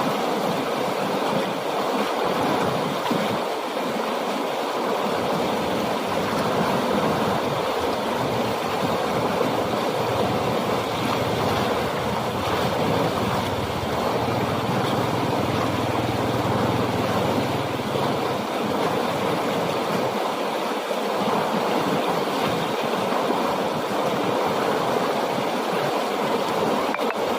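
Strongly flowing water rushing steadily, a continuous even rush. A low hum runs beneath it for several seconds in the middle.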